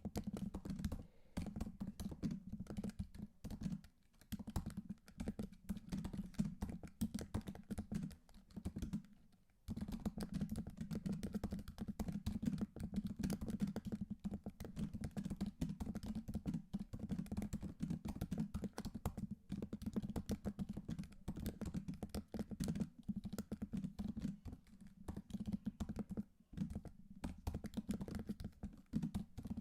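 Continuous typing on a computer keyboard: a dense, fast run of key clicks, with a short pause about nine seconds in.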